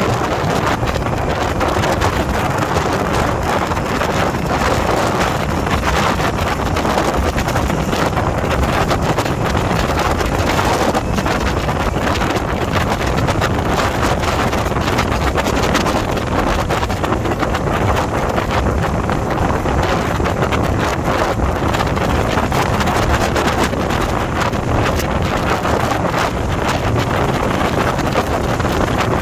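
Wind buffeting the microphone of a motorcycle riding at road speed, with the bike's engine running steadily underneath.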